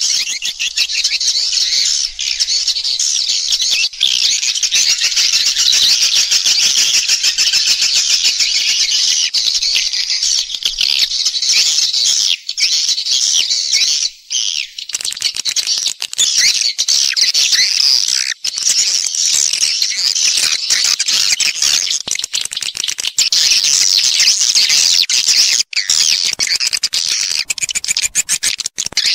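Swiftlets twittering: a dense, continuous chatter of many high chirps, with a few short breaks. This is a recorded call-and-roost lure of the kind played in swiftlet houses to draw swiftlets in to nest.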